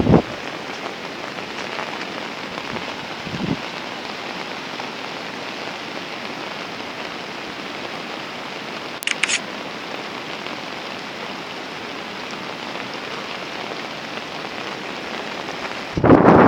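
Heavy rain falling steadily in an even hiss. Near the end a loud gust of wind buffets the microphone.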